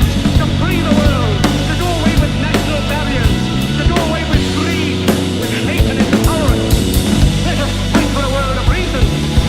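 Loud rock music with a drum kit keeping a steady beat and a lead line that bends up and down in pitch.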